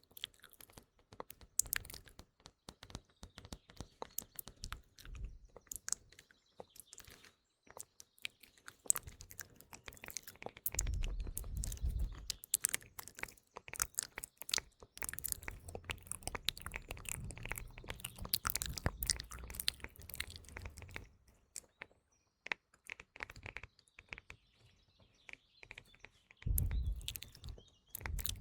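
Close-miked ASMR mouth sounds, a dense run of wet clicks and smacks, mixed with fingertip tapping on a phone, over faint chirping of morning birds. Stretches of low rumble come and go.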